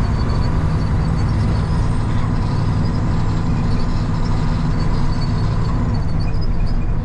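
Heavy truck's diesel engine running steadily under way, heard from inside the cab.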